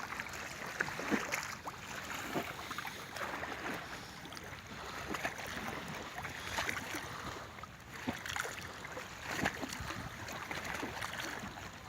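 Open-air ambience at the edge of a large pond: wind with small waves lapping and splashing irregularly at the shore.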